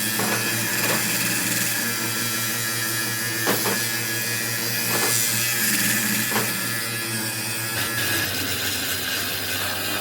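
Metalworking machinery running with a steady low hum and a noisy grinding texture, with a few sharp knocks scattered through it.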